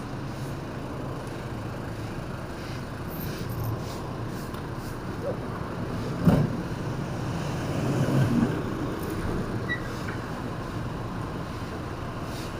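Steady street-traffic and vehicle engine noise heard while driving through city traffic, with one sharp loud knock about six seconds in and a brief swell of engine noise around eight seconds.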